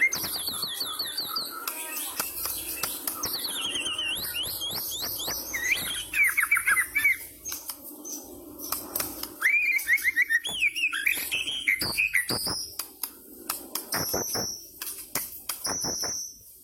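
White-rumped shama singing continuously: phrases of quick, repeated, sliding whistled notes, some falling and some rising, broken by short pauses and sharp clicks. The last few seconds are high, short notes.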